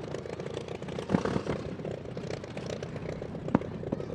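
BABS's 27-litre V12 aero engine running with a rapid, even firing beat. Two sharp, louder cracks stand out, about a second in and again near the end.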